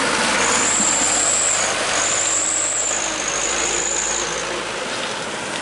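Diesel truck engine running, with a steady rush of noise and a thin high whine that wavers and fades out about four seconds in.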